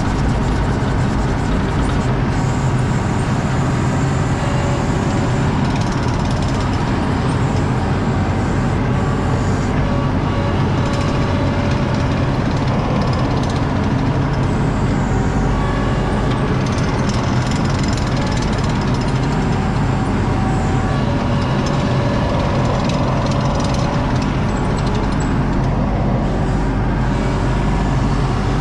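ASV RT-40 compact track loader's diesel engine running steadily at working throttle, a constant heavy machine drone with no break.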